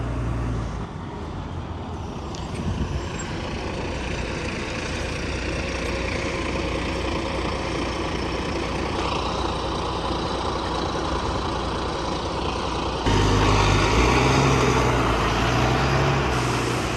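Wright Gemini 2 double-decker bus on a Volvo B9TL chassis, heard from inside the saloon: the engine runs under a wash of road and cabin noise. About thirteen seconds in, the engine note comes in suddenly louder and stays strong as the bus pulls harder.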